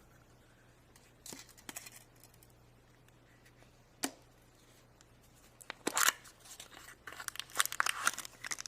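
Packaging wrapper being torn open and crinkled, with a few faint clicks first, then short bursts of crackly rustling about six seconds in and again near the end.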